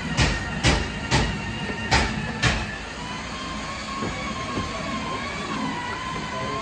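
Five sharp hammer knocks on car body metal, about half a second apart, then a steady high whine that wavers slightly.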